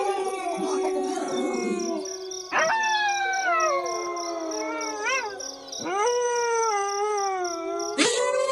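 A pack of wolves howling in chorus: several long, overlapping howls that slide slowly down in pitch. New howls swoop sharply upward about two and a half seconds in, near six seconds and just before the end.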